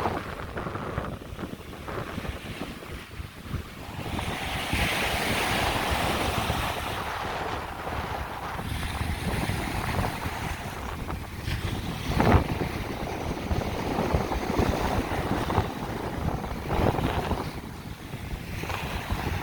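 Wind buffeting the microphone in gusts over the wash of surf on a beach, with a swell of hiss a few seconds in and one sharp thump of wind about midway.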